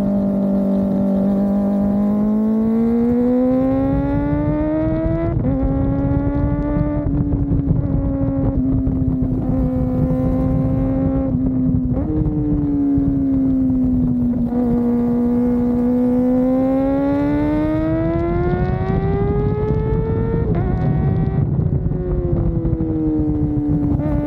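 Kawasaki ZX-4RR's 399 cc inline-four engine running at high revs while riding, its pitch climbing and falling with several sudden steps as gears are changed, over a steady low rush.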